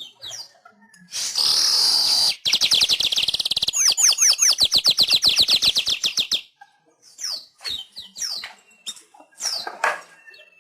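Weaver bird (manyar) singing: a buzzy hiss about a second in, then a fast, rattling chatter of rapid chirps lasting about four seconds, followed by scattered short chirps.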